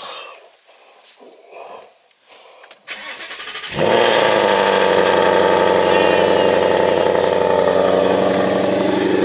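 Ford Mustang GT V8 with aftermarket headers, an X-pipe and factory mufflers being started: the starter cranks briefly about three seconds in, the engine catches near four seconds and settles into a loud, steady idle.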